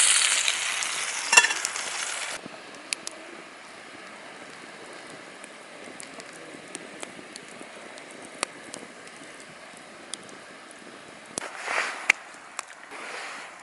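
Wood campfire crackling, with scattered sharp pops over a steady sizzle from meat grilling over it. A loud hiss at the start dies away within about two seconds, and short noisy swells come near the end.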